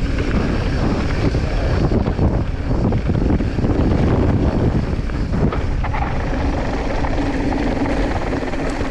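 Wind buffeting the camera microphone over the rumble and rattle of a mountain bike descending a rough trail, with a steady low hum in the second half.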